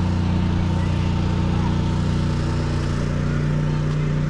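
Engine running steadily, a low droning hum that settles slightly lower in pitch about three and a half seconds in.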